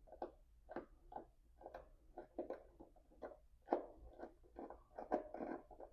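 Faint, irregular clicks and scrapes, a few a second, from a hand tool working the battery hold-down bolt loose.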